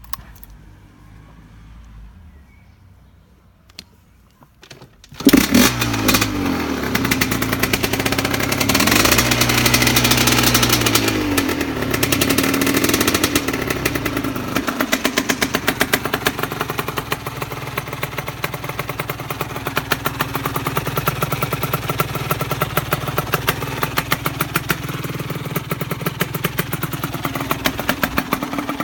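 Husqvarna SM125 two-stroke single-cylinder engine, fitted with a homemade expansion chamber and a WR motocross silencer. It starts suddenly about five seconds in and is revved up and down several times. It then settles into a steady idle with a fast, even popping from the exhaust.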